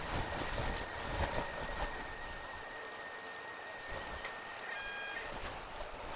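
Storm-force wind buffeting the microphone, an uneven low rumble with scattered clicks. A brief pitched tone sounds about five seconds in.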